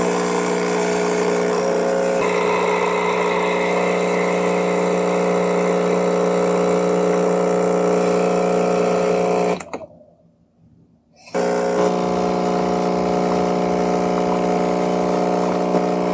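A steady machine hum at a constant pitch, like a small motor or pump running; it cuts out for about a second and a half just under ten seconds in, then starts again.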